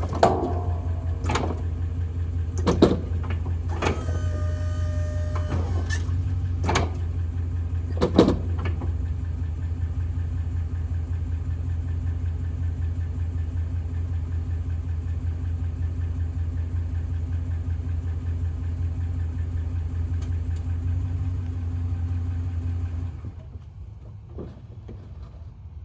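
Pickup truck running steadily while its mounted snowplow is worked, with sharp clicks and short whines from the plow's controls and hydraulics in the first several seconds. The steady running sound cuts off suddenly near the end.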